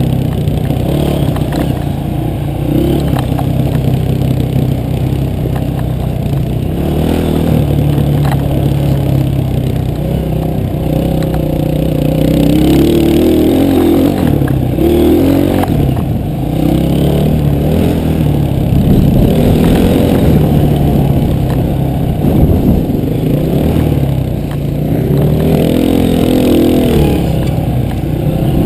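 Enduro dirt bike's engine heard from the bike as it is ridden along a dirt trail, revving up and down with the throttle throughout.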